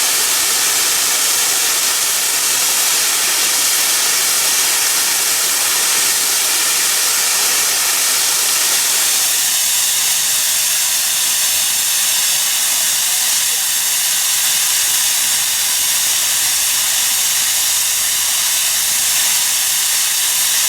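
QR C17-class steam locomotive C17 974 venting steam with a loud, steady hiss.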